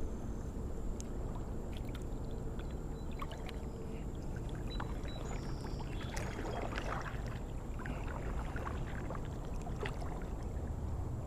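Water sloshing and lapping around a kayak, with scattered small splashes, knocks and clicks over a steady low rumble.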